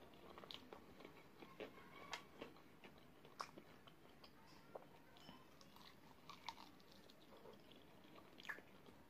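Quiet close-miked chewing of sauce-coated fried chicken wings: irregular wet smacks and small sticky clicks from mouth and fingers pulling the meat, with a few louder pops scattered through.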